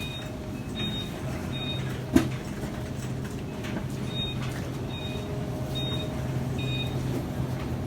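Supermarket background with a steady low hum and short high electronic beeps repeating in two runs of four, about one every 0.8 s. A single sharp knock comes about two seconds in.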